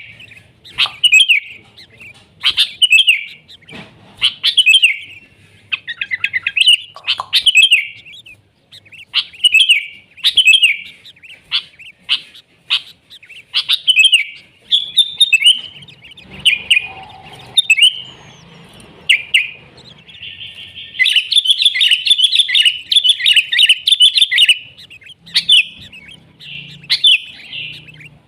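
Sooty-headed bulbul singing: short, bubbly chirping phrases repeated about once a second, breaking into a denser run of chattering about two-thirds of the way through.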